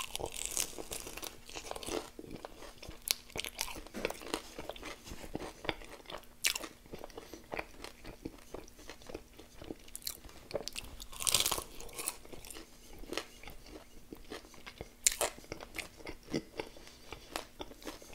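Biting and chewing an extra-crispy fried chicken drumstick glazed in peanut butter and jam: irregular sharp crunches of the crispy skin with chewing in between, the loudest crunch a little past the middle.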